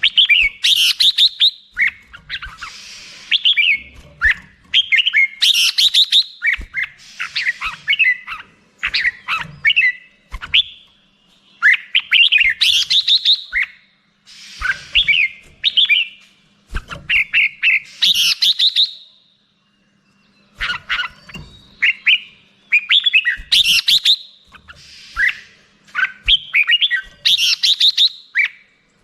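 Red-whiskered bulbul singing: short phrases of bright, quick chirping notes repeated every second or two, with a brief pause about two-thirds of the way through.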